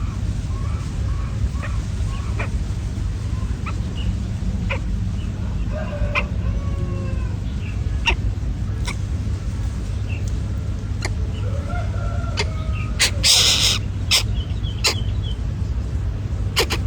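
Chickens clucking in short, bending calls over a steady low rumble, with scattered sharp clicks and one loud, brief rush of noise late on.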